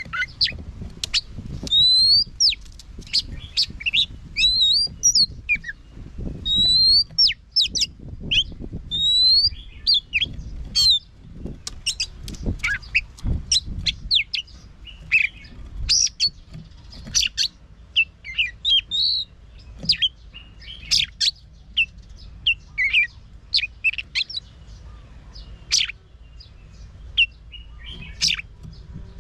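Oriental magpie-robin singing a fast, varied song of clear whistles, rising slides and sharp chips, with hardly a pause.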